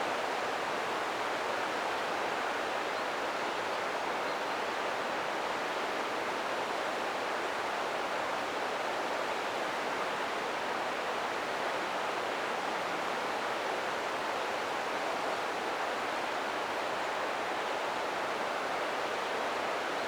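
The Ōta River flowing: a steady, unbroken rush of running water.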